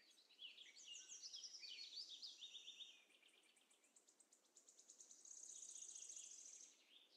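Faint chirping of small birds: a run of quick high notes for the first few seconds, then a rapid high trill from about five to nearly seven seconds in.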